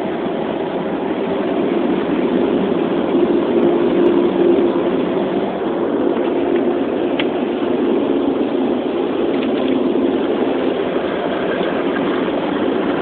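Automatic car wash machinery running steadily, heard from inside the car: a continuous rushing noise with a low hum.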